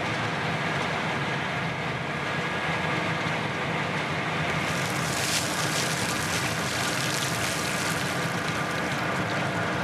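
A 350-horsepower tugboat's engine running steadily under load against a strong river current, with a steady hiss over it that strengthens about halfway through.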